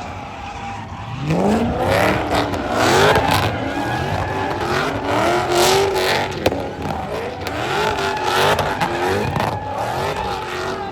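Car engine revving hard during a drift or burnout run, its pitch rising and falling again and again as the throttle is worked, with tyre squeal. A single sharp crack about six and a half seconds in.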